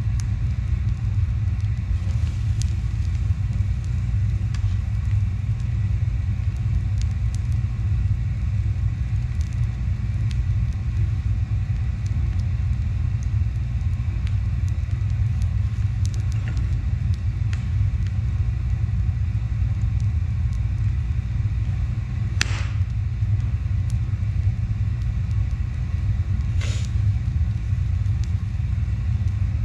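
A steady low rumble, with scattered faint clicks and two sharper knocks in the second half.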